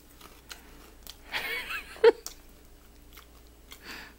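Biting and chewing a ball of Korean puffed rice snack (ppeongtwigi), with faint scattered crunches. A louder brief noise ends in a sharp click about two seconds in.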